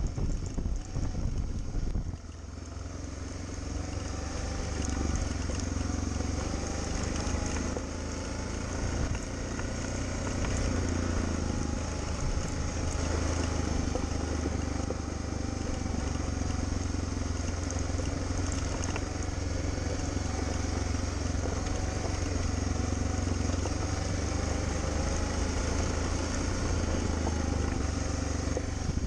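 A vehicle under way, its engine running steadily beneath road and wind noise. The sound dips about two seconds in, then builds back up and holds.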